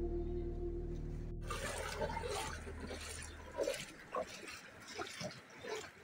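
A held, bell-like music drone cuts off about a second and a half in. It gives way to splashing, moving water, with faint short scattered sounds over it, fading lower toward the end.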